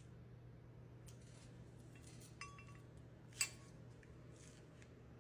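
A few faint clinks and taps at the parrot's cage, with one sharper click about three and a half seconds in, over a low steady hum.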